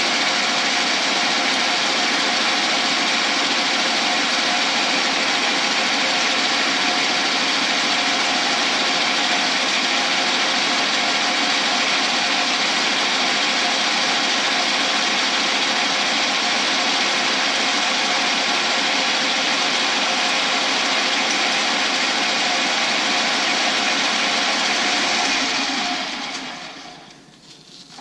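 Lathe spinning a cast shifter-knob blank still partly encased in its PVC pipe mold, with the PVC being cut away, making a loud, steady noise. About 26 seconds in, the noise fades as the lathe stops.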